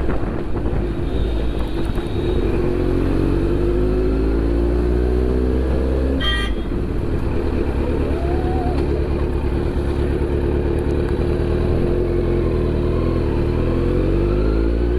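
Kawasaki Z900's inline four-cylinder engine running under way, its pitch rising and falling as the throttle is worked and gears change. A short high sound cuts in at about six seconds.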